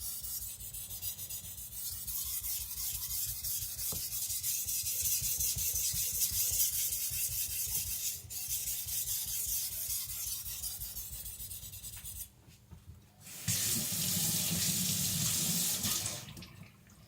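Carbon-steel nakiri blade stroked back and forth across a wet Naniwa Professional whetstone, a steady scraping hiss. The strokes stop about twelve seconds in, and after a short pause water runs from a tap for about three seconds.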